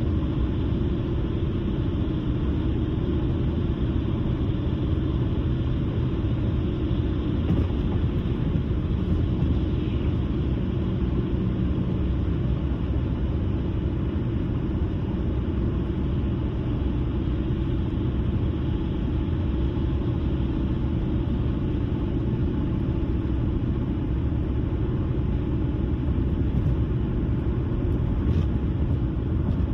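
A car driving at a steady speed: a constant low rumble of tyres on the road and engine that holds even throughout.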